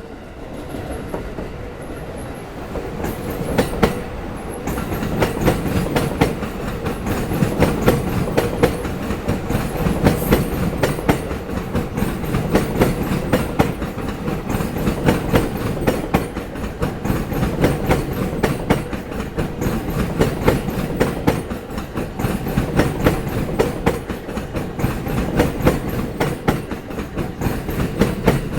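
Electric commuter train wheels clattering loudly over rail joints, a continuous run of rapid clicks that builds over the first few seconds and keeps going as the cars roll through.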